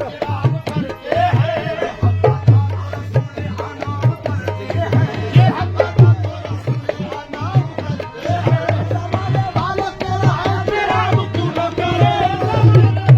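Qawwali music: a dholak drum keeps up a fast, steady beat of low strokes under a wavering melody line.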